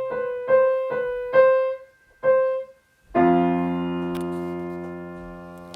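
Piano or electric keyboard playing a run of short, repeated notes, then a loud held chord with low bass notes about three seconds in that slowly fades out.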